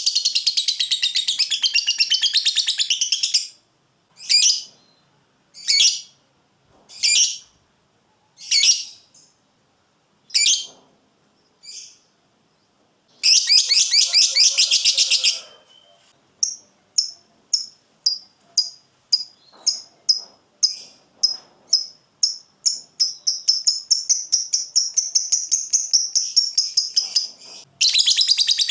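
Lovebird singing its long 'ngekek' chatter: a dense, rapid, high-pitched chattering trill, broken by a string of single sharp calls about a second and a half apart. It then gives another chattering spell and a run of chirps that speeds up until it merges into one continuous trill near the end.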